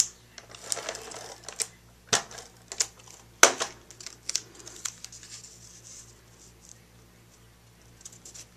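Cardstock and paper pieces being handled and pressed together on a work table while adhesive goes on: a series of sharp taps and clicks with some brief paper rustling, the loudest click about three and a half seconds in.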